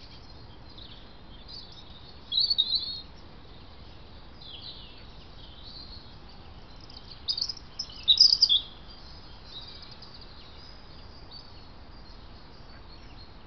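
Small birds calling in short bursts of high chirps, loudest about two seconds in and again around seven to eight seconds in, over a steady background hiss.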